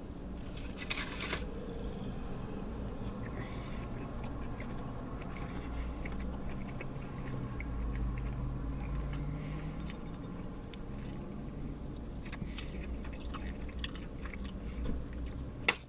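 A person chewing and biting food close to the microphone, with small wet clicks and crunches, over a steady low hum.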